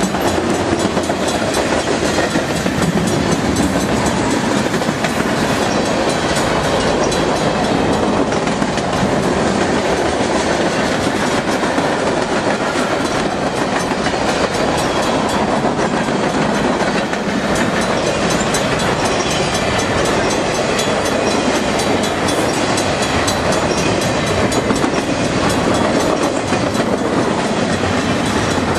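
Freight cars of a mixed freight train rolling past at speed: a steady, loud rumble and rattle with a running clickety-clack of wheels over rail joints.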